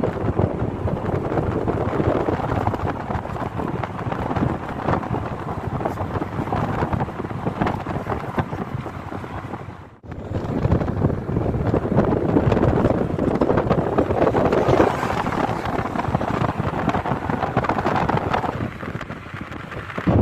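Wind blowing across the microphone, a steady rushing noise that drops away briefly about halfway through.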